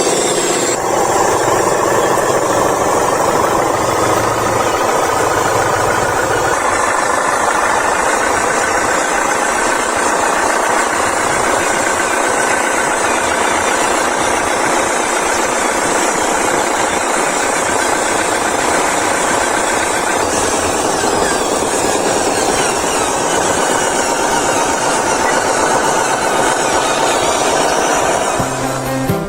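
Radio-controlled model excavator running, a steady engine-like mechanical drone that eases off just before the end.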